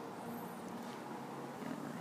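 Steady low background hum of room noise, with no distinct events.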